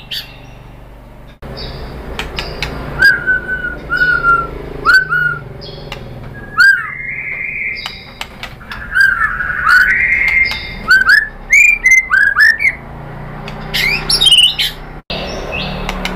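White-rumped shama singing a varied, loud song: short swooping whistled notes, many in quick runs, mixed with sharp clicks and higher chips. The sound drops out briefly about a second in and again near the end.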